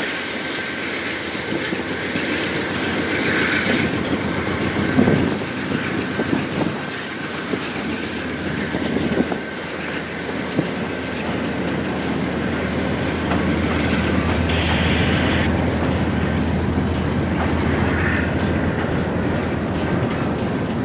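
Railcars of a passing freight train rolling by steadily, wheels clacking over rail joints, with a thin steady wheel squeal above the rumble.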